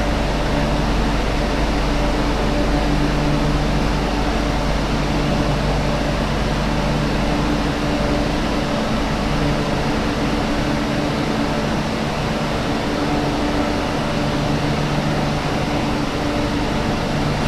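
Steady hum of an MTR Q-train standing still: its air conditioning and onboard equipment running, with a few constant low tones over an even hiss.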